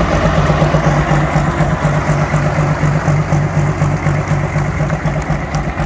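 A competition pulling tractor's engine running at low revs with an even, pulsing beat of about three pulses a second.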